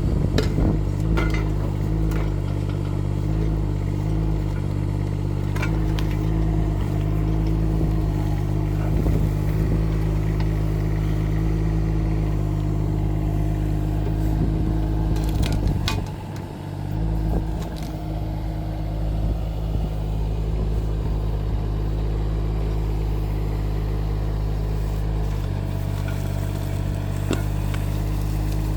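Rippa R15 mini excavator's engine running steadily under work, with a few sharp knocks scattered through and a brief drop in level a little past halfway.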